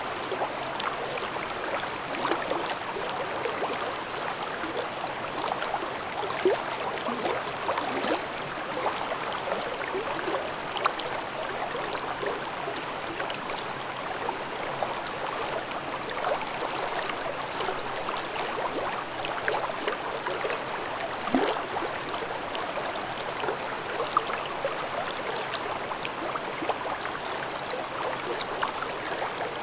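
Mountain stream babbling over rocks: a steady rush of flowing water with small gurgles and splashes.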